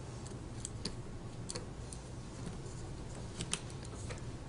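Small, scattered clicks and taps of phone parts being handled as tiny flex-cable connectors are pressed onto the circuit board, a few irregular clicks over a low steady hum.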